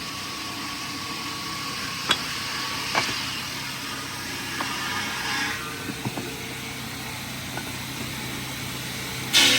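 Steady industrial machinery noise with scattered sharp knocks, then a sudden louder rush of noise just before the end.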